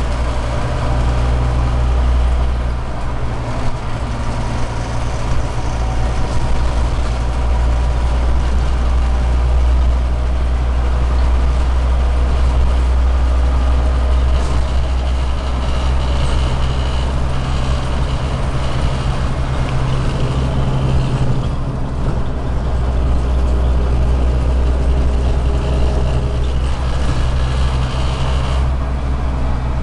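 Scania OmniCity city bus heard from inside the cabin: its Euro 4 diesel engine and drivetrain give a steady low drone with running noise, easing off and picking up again a few times as the bus drives.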